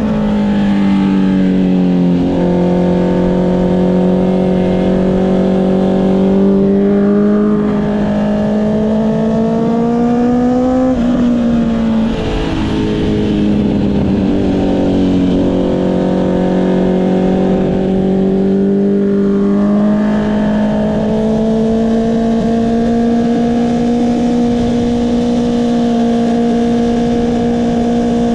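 Honda CB650R inline-four engine running through an Akrapovic exhaust while riding. Its note climbs slowly with engine speed, drops sharply about two seconds in and again around eleven seconds, then climbs again and holds steady near the end.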